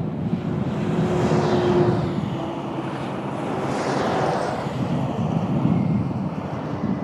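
Cessna Citation CJ2+ business jet's twin turbofans rushing past on arrival, with a high whine that slowly falls in pitch as it goes by. Wind buffets the microphone throughout.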